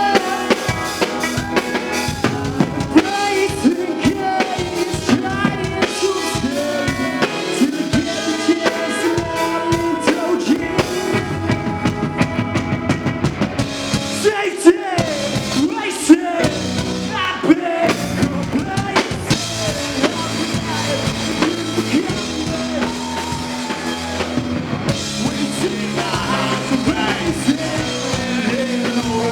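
Live rock band playing: drum kit, bass and guitars in an instrumental passage, with some vocal lines over the top in places.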